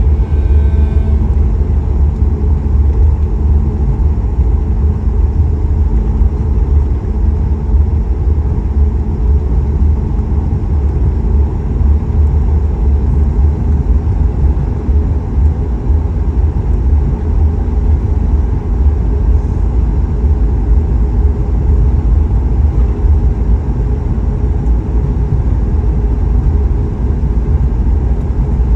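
Steady, loud low rumble inside the cabin of a Boeing 737 MAX 8 on departure: its CFM LEAP-1B engines and the airflow heard from a seat near the front.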